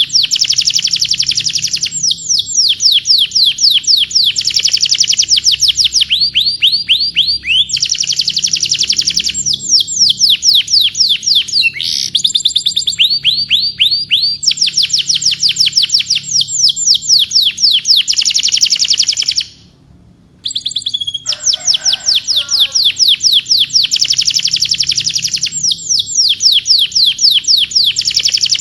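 Domestic canary singing loudly in fast trills of rapidly repeated down-sweeping notes, phrase after phrase, with a brief pause about two-thirds of the way through.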